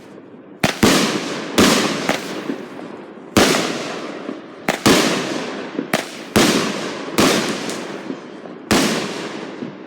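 Consumer fireworks going off: about a dozen sharp bangs, roughly one a second, each trailing off over a second or so.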